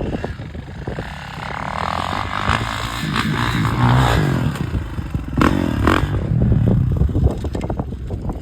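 Dirt bike engine revving up and down as it rides, louder through the middle, with two sharp knocks about five and a half and six seconds in.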